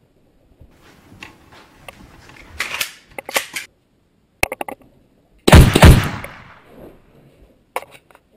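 Two very loud handgun shots fired about a third of a second apart, about two-thirds of the way through, each with a short echoing tail. Before them come scuffling and a few sharp clicks of handling.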